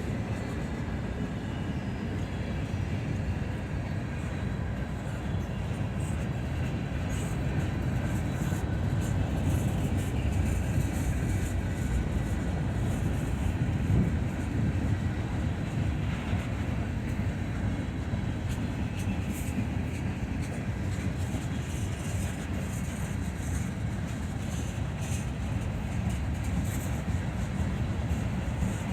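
Norfolk Southern mixed freight train rolling past, a steady rumble of steel wheels on the rails, with faint high ticks now and then.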